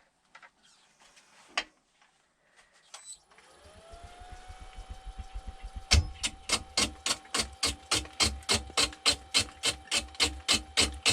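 A wood lathe's motor starts up with a rising whine that settles into a steady hum. About six seconds in, a bowl gouge starts striking an out-of-round poplar log, giving loud knocks about four to five times a second, one per turn where the log's high spots meet the tool. The log is not yet round, so the cut is intermittent and the piece wobbles.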